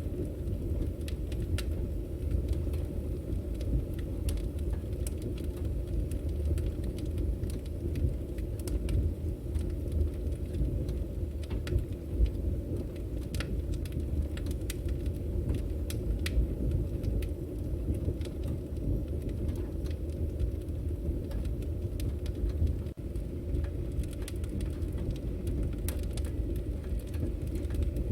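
Firewood burning: a steady low rumble from the fire with frequent, irregular sharp crackles and pops.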